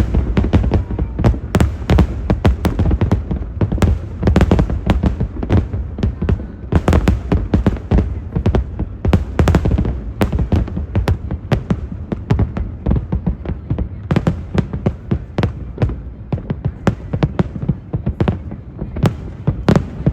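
Fireworks display heard from a distance: a dense, continuous run of bangs, several a second, over a steady low rumble.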